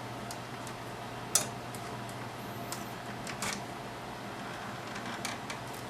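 Scattered sharp clicks and light knocks of an instrument's front panel being worked loose by hand, the loudest about a second in, over a steady hum.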